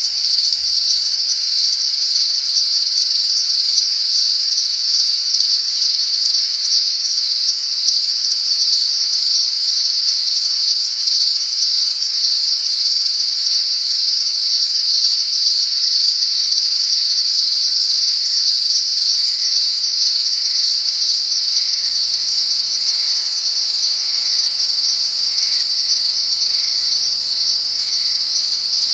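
Dense insect chorus: a steady, loud, high-pitched buzzing trill that runs on without a break.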